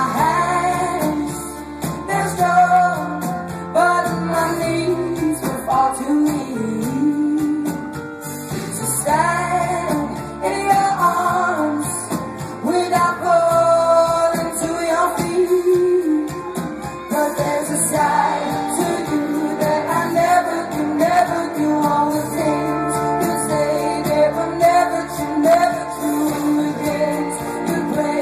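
Female lead singer and band performing a pop ballad live in concert.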